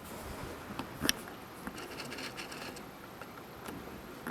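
Steady patter of rain falling, with a sharp tap about a second in.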